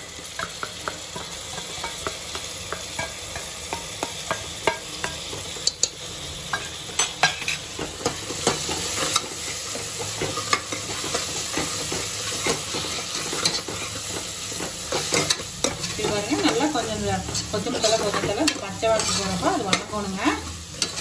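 Onion, tomato and coriander-mint paste sizzling in oil in a pressure cooker pan while a steel spoon stirs it, scraping and clicking against the pot. The stirring gets busier and louder in the last few seconds.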